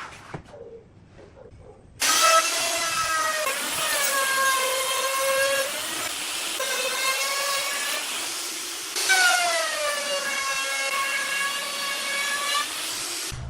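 A woodworking power tool running through wood, a loud motor whine over cutting hiss. Its pitch sags each time the cut starts, about two seconds in and again near the middle, after a quiet start with a few light knocks.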